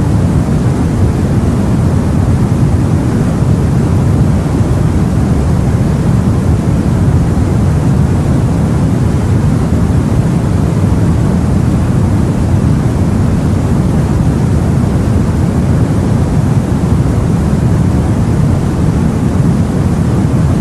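The sea heard aboard a boat: a steady, deep wash of water noise with no separate waves, splashes or breaks standing out.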